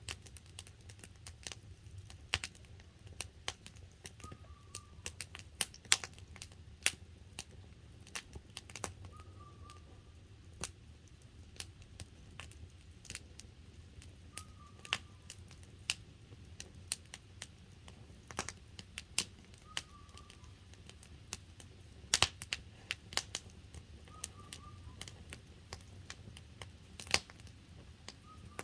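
Wood campfire crackling, with irregular sharp pops and snaps. A short bird call repeats about every five seconds in the background.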